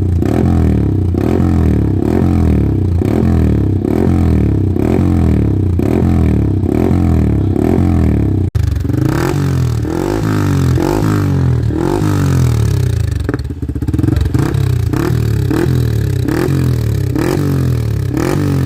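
Yamaha MT-15's single-cylinder engine revved over and over through an aftermarket exhaust: quick blips rising and dropping in pitch, about three every two seconds. There is a sudden break about eight and a half seconds in, then the blipping goes on.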